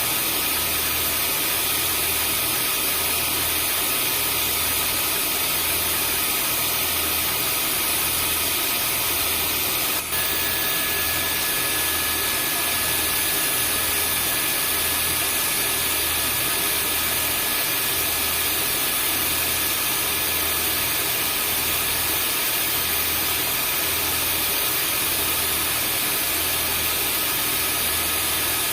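Vacuum cleaner motor running steadily: a continuous whooshing noise with a faint high whine.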